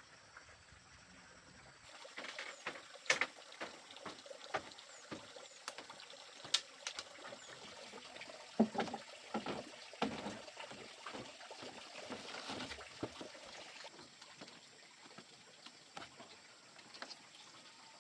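Water splashing and trickling, with irregular sharp knocks and clicks for most of the stretch that thin out near the end.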